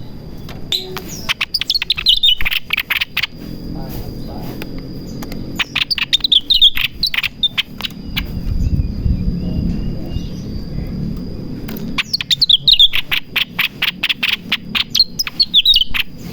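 Cucak ranting bulbul singing in breeding condition: three bouts of song, each a quick run of sharp notes stepping down in pitch.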